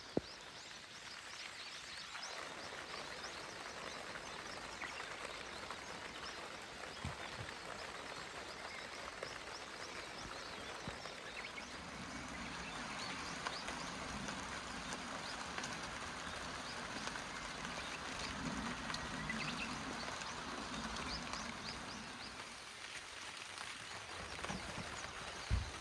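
Rain falling steadily: a dense spread of small drop ticks with a soft hiss underneath. A single sharp knock sounds just after the start.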